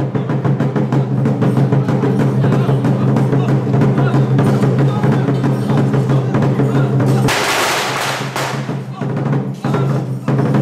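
Traditional temple percussion of drums with rapid clacking strikes, played loud and dense over a steady low hum, with a loud crashing burst about seven seconds in.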